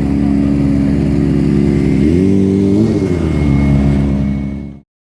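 A car engine running loudly, revved once about two seconds in with its pitch rising and then settling back. The sound cuts off suddenly near the end.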